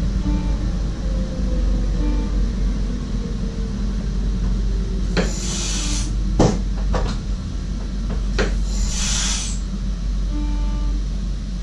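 The inside of an NS SGMm Sprinter electric train's cab, with a steady low rumble. A short two-note beep repeats about every two seconds near the start and again near the end. In the middle there are two bursts of air hiss and a few sharp clunks.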